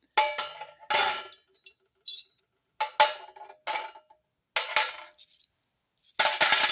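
Small steel tool parts clinking against each other and a hard surface: about six separate metallic clinks, each with a short ring, the last one a longer clatter near the end.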